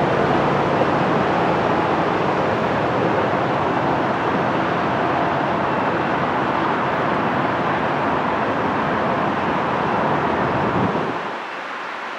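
Coaster commuter train of bilevel cars departing and accelerating away, wheels rolling on the rails with the MPI F40PHM-2C diesel locomotive pulling at the far end; a steady rumbling noise that drops suddenly about eleven seconds in.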